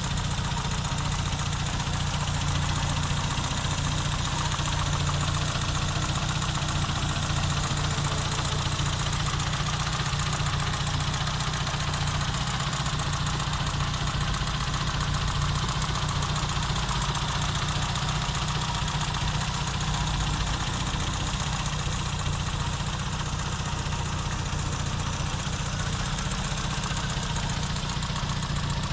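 Peugeot 205 Rallye's four-cylinder petrol engine, rebuilt at 150,000 km, idling steadily with the bonnet open.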